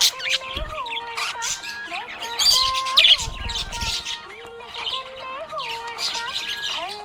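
Budgerigars chirping and warbling, a busy chatter of gliding notes broken by sharp high chirps and squawks, loudest about two to three seconds in.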